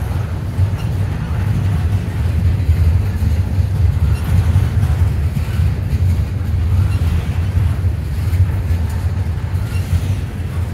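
Norfolk Southern double-stack intermodal freight train rolling past, its loaded well cars making a steady low rumble on the rails.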